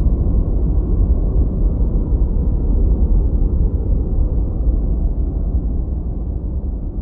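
Continuous synthetic noise track, deep and rumbling with little hiss, slowly fading out over the last couple of seconds.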